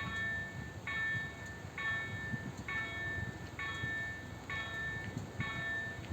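Level-crossing warning bell striking a ringing tone about once every 0.9 seconds, seven strikes in a row, over the low rumble of a freight train running over the crossing.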